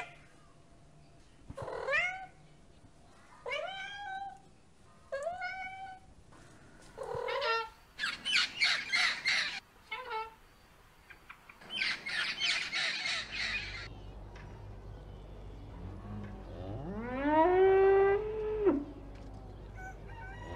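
A cat meows four or five times, each meow bending up and down in pitch. Then a blue-and-gold macaw gives two bouts of harsh squawks. Near the end, a cow gives one long moo that rises in pitch.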